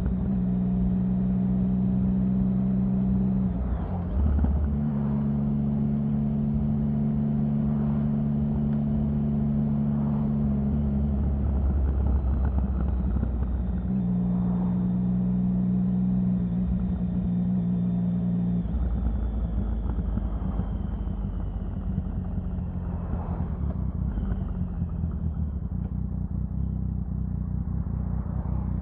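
Triumph Sprint 1050's three-cylinder engine running with a steady engine note held for several seconds at a time. The note changes or drops out every few seconds, over a constant low rumble.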